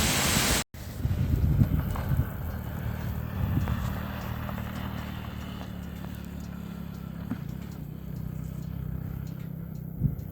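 A loud steady hiss stops abruptly less than a second in. It gives way to a motorcycle engine running at steady low revs, with a few faint clicks and knocks.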